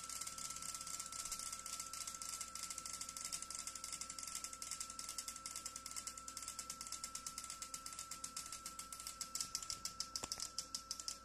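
Fuel injectors on an injector test bench clicking rapidly and evenly as the machine's auto test pulses them at varying frequencies and pulse widths, simulating different engine RPM. About three-quarters of the way in, the clicking slows to fewer, louder clicks. A steady high tone runs underneath.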